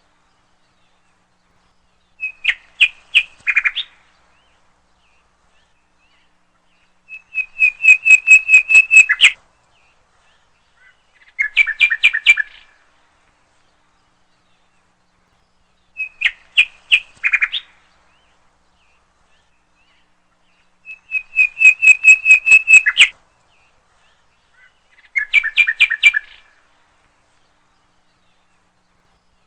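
A songbird singing short phrases of rapid chirps, six phrases spaced a few seconds apart with silence between them.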